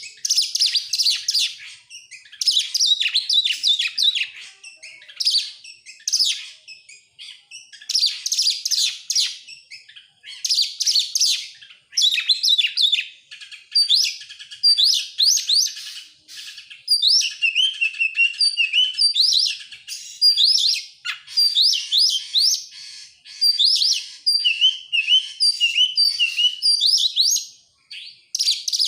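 Oriental magpie-robin (kacer) singing in quick phrases of varied whistles and chatter, one after another with short pauses. In the second half some phrases carry runs of short repeated slurred notes.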